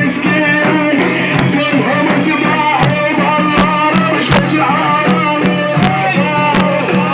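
Devotional Arabic praise singing (madih) for the Prophet, a melodic voice carried over frequent drum beats.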